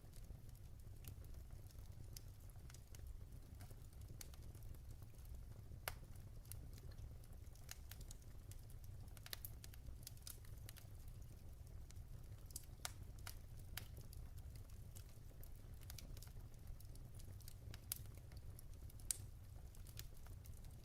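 Wood fire burning in a fireplace, logs crackling with irregular sharp pops over a low steady rumble; the loudest pops come about six seconds in and near the end.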